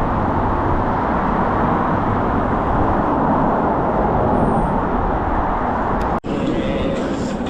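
Steady, loud wind noise buffeting a GoPro's microphone on a moving e-bike. It cuts off abruptly about six seconds in, and a lighter, hissier noise follows.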